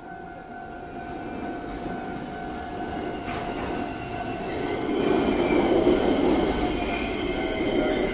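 Shizuoka Railway 3000 series electric train pulling into the station. Its running rumble grows from about halfway through and is loudest over the last few seconds, with faint wheel or brake squeal as it slows alongside the platform. A steady ringing warning tone fades out in the first few seconds.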